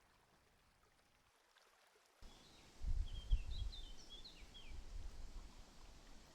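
Outdoor ambience cutting in about two seconds in: a small bird gives a quick run of short, high chirps over an uneven low rumble.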